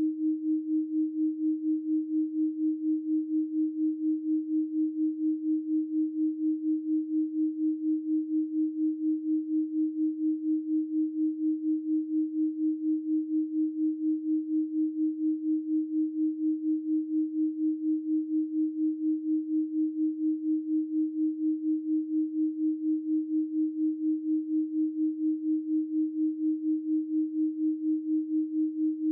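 A steady electronic pure tone at 312 Hz, one unchanging pitch with no overtones, its loudness pulsing evenly several times a second.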